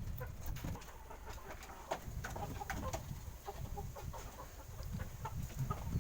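Chickens clucking here and there, short scattered calls over a low rumble.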